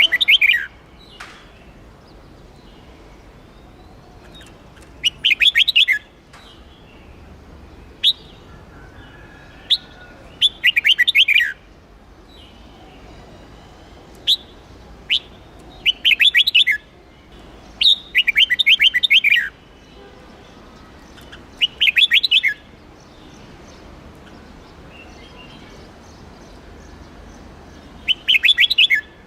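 Red-whiskered bulbul singing: about six short bursts of rapid, sweeping warbled notes a few seconds apart, with a few single sharp chirps between them.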